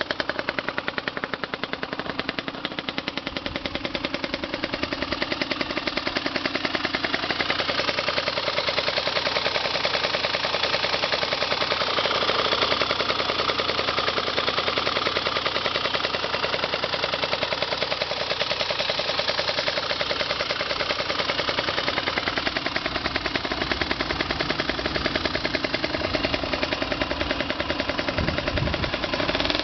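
Bored-up Honda CRM50 two-stroke single with an expansion chamber exhaust running, its exhaust firing as a rapid machine-gun-like popping. The engine speed climbs over the first several seconds, then holds high.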